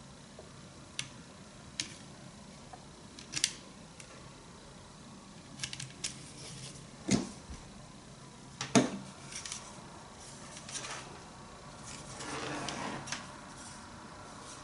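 Scattered clicks and knocks of small objects and packaging being handled, about a dozen, with the loudest two a little past the middle, then a second or so of rustling.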